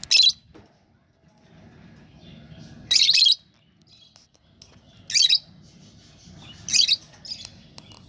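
Lovebird giving short, loud, shrill screeching calls, four in all, about every two seconds, as it fights a wrapper. Faint small ticks fall between the calls.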